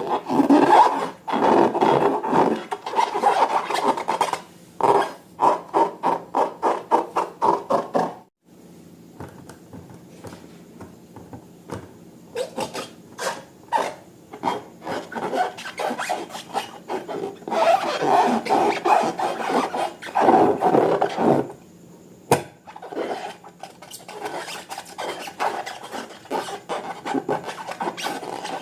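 Slime being squeezed and worked by hand, with runs of quick crackling clicks and squelches. It stops briefly about 8 seconds in, then starts again.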